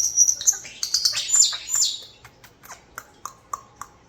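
European starlings vocalizing: high whistles and quick downward-sweeping calls for about two seconds, then a run of short, sharp clicks.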